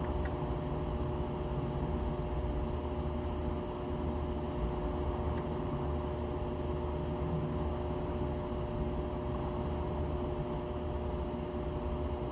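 Steady, unchanging hiss with a constant two-note hum and no distinct events.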